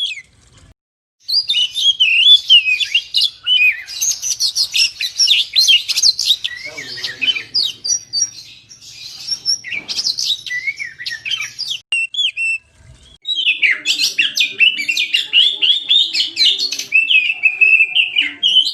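Oriental magpie-robin (kacer) singing vigorously: a fast, varied run of whistles and chirps. The song breaks off briefly about a second in and again around thirteen seconds in.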